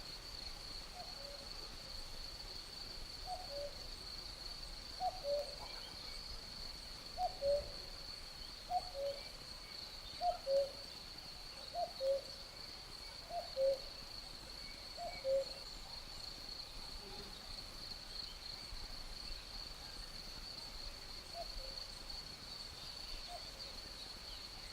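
An animal, most like a night bird, giving a short two-note call, a higher note then a lower one, about seven times at roughly one-and-a-half-second intervals, fading out near the end, over a steady high-pitched insect trill.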